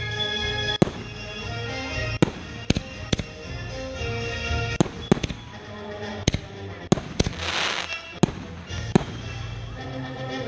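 Fireworks going off: about a dozen sharp bangs at uneven intervals, with a hissing, crackling burst a little past the middle, over music playing.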